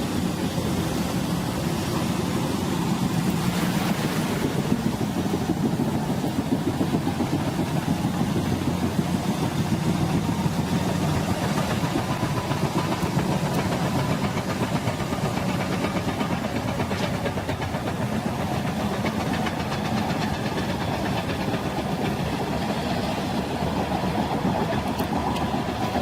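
An engine running steadily under a dense, rumbling noise, with a constant low drone.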